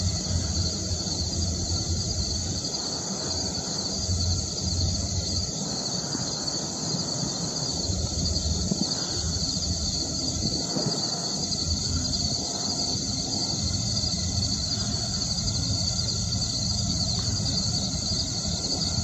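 Diesel locomotive at the head of an empty coal train approaching, a low engine rumble that swells and eases at times. A steady high-pitched insect drone runs under it throughout.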